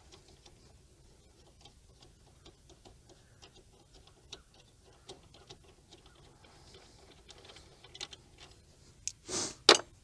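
Hand ratchet clicking steadily as a 13 mm hub bearing bolt is backed out, a few light clicks a second. Near the end, a louder scrape and a sharp metallic clank.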